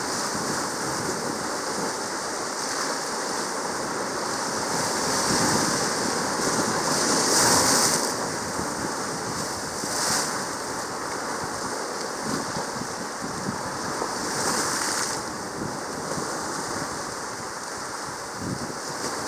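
Sea water washing: a steady surf-like hiss that swells several times, loudest about a third of the way in.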